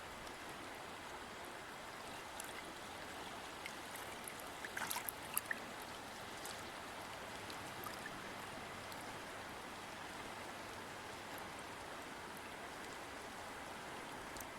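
River or stream water flowing in a steady rush, with small splashes and droplet clicks standing out now and then, a brief cluster of them about five seconds in.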